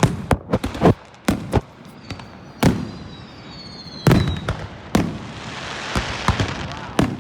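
Aerial fireworks going off: a quick string of bangs in the first second or so, then single heavier booms with a faint falling whistle between them, and a crackling hiss building near the end.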